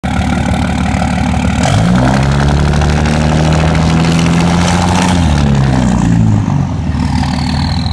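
2006 Dodge Ram 2500's 5.9-litre Cummins turbo-diesel straight-six running through a 5-inch straight-pipe exhaust: idling, then revved up a couple of seconds in, held for about three seconds and let back down to idle. A high whistle falls in pitch as the revs drop.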